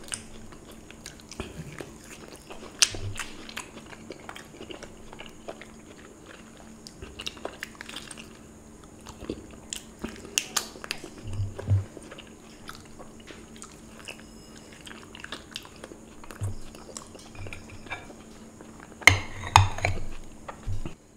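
Close-miked wet chewing and biting of soft ripe jackfruit bulbs eaten by hand, with many small mouth clicks and smacks. The smacking grows denser and louder near the end.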